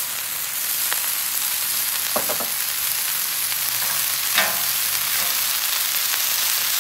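Diced peas and carrots sizzling on a hot flat-top griddle, a steady frying hiss, with a few light clicks.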